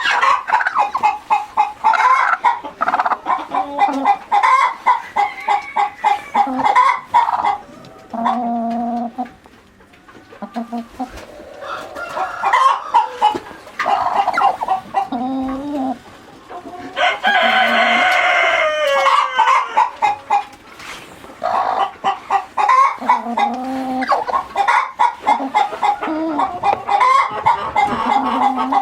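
A flock of chickens clucking continuously in quick repeated notes, with one longer, louder drawn-out call about two-thirds of the way through that falls in pitch at its end.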